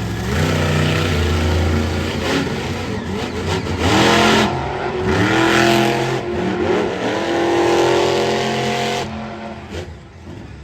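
Monster truck engine revving hard, its pitch climbing and falling several times, with a loud burst of noise about four seconds in. The engine sound falls away near the end.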